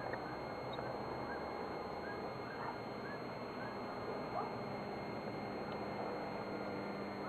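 A bird gives a run of five or six short chirps in the first half, over a steady outdoor hiss.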